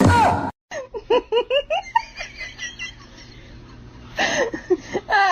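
A person laughing in quick repeated bursts, in two bouts with a quieter stretch between, after a short loud sound at the very start.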